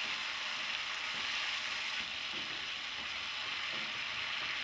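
Shallots, crushed chili and tomato sizzling steadily in hot sunflower oil in a frying pan, with a little water added to soften the tomato.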